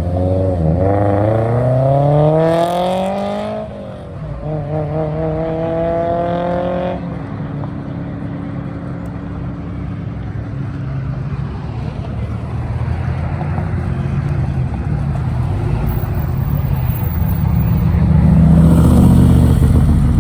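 A car accelerating hard away, its engine pitch climbing for about three seconds, then dropping at an upshift and pulling on briefly before fading. Near the end another vehicle's engine grows louder.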